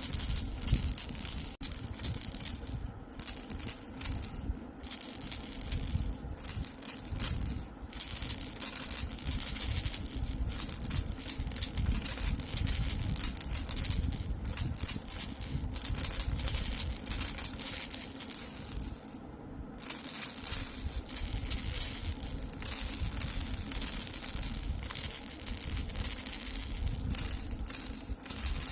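Baby rattle shaken continuously, giving a fast, high-pitched rattle, with a few brief pauses and a longer pause about 19 seconds in.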